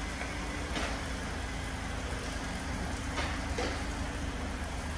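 Hyundai Elantra sedan's engine running at low speed as the car rolls slowly through the car wash bay: a steady low hum with an even hiss of water spray, and two faint swishes, about a second in and again near three seconds.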